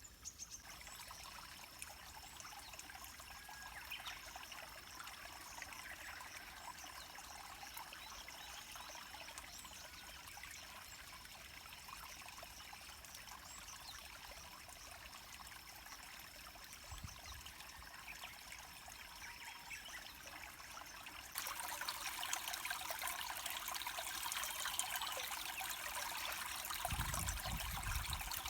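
River water flowing and trickling, a steady rushing hiss that steps up louder about three-quarters of the way through, with a brief low rumble near the end.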